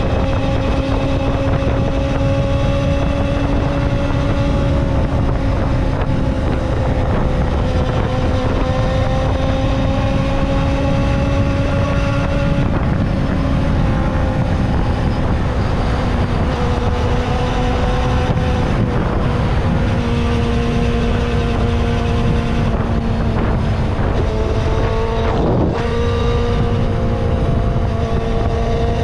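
Kawasaki ZXR250 inline-four engine running at steady high revs under way, its note drifting slowly in pitch, with wind noise on the microphone. Near the end the note breaks briefly, then picks up again.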